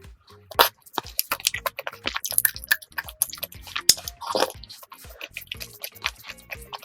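Close-miked wet chewing of chewy rice cakes in sauce: irregular soft smacks and squishes from the mouth as tteokbokki is eaten.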